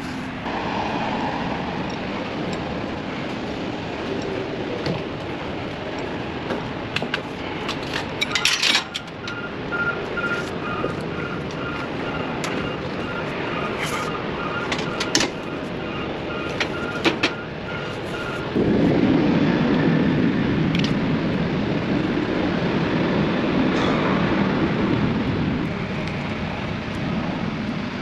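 Steady truck or machinery rumble with scattered sharp metallic clicks and knocks from work on the hose fittings. A faint beep repeats about twice a second through the middle, and a louder low rumble sets in for several seconds past the halfway point.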